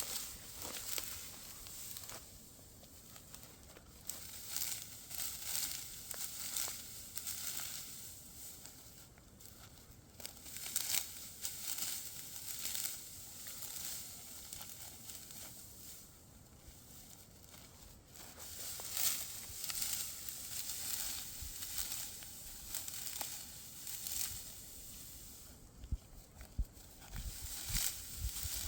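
Dry wheat stalks rustling and tearing in irregular bursts of crackly noise.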